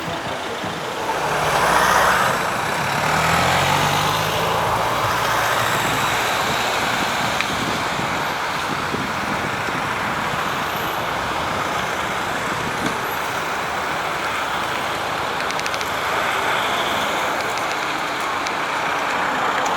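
Metro train running on the surface: a motor hum rising in pitch over the first few seconds, then a steady rumbling run.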